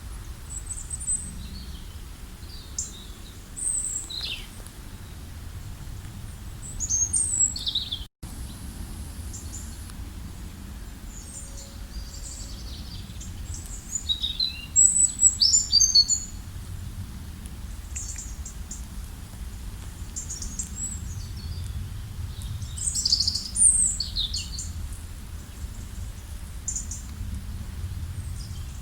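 Songbirds chirping and singing in short, high calls and trills scattered throughout, with louder bursts of calls about 7, 15 and 23 seconds in, over a steady low rumble. The sound cuts out for an instant about eight seconds in.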